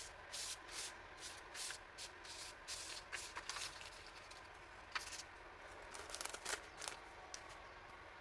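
Packaging and paper stationery being handled by hand: a series of short rustles and crinkles, with one sharp click about five seconds in.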